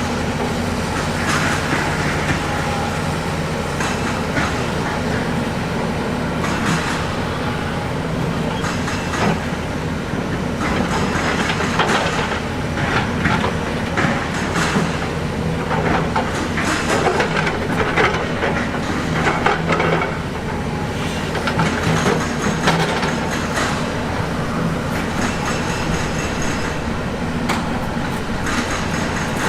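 Heavy diesel earthmoving machine running steadily under load, with frequent metallic clanks and scraping of steel on rock.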